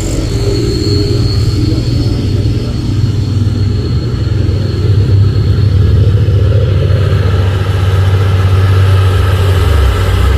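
Truck engine running under load as it climbs a steep incline: a steady, loud, low drone that swells slightly about halfway through.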